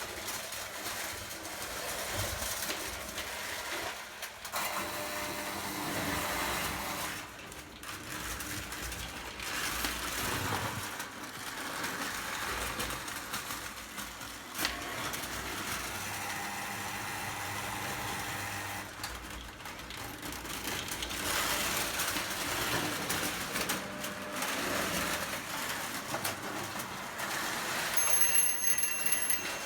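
Prewar Lionel O gauge electric toy train running on tinplate track, its motor and wheels rattling steadily with the level rising and falling. A brief high tone sounds near the end.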